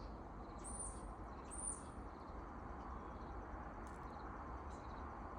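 A bird gives two short, very high, thin chirps about a second apart near the start, over a faint steady outdoor hiss.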